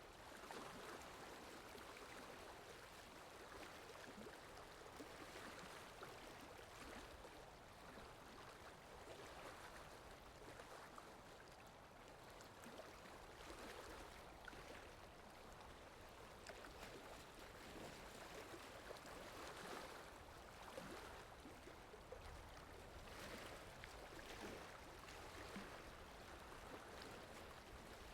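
Faint, soft, irregular swishing strokes over a low hiss: a watercolor brush working across paper.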